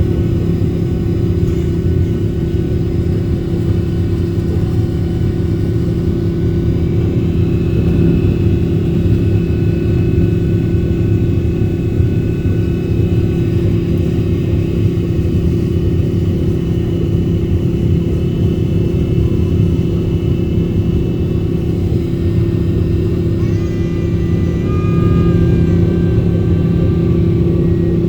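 Steady jet engine and airflow drone of an airliner taking off, a constant low hum under a broad rush. Faint higher tones come in near the end.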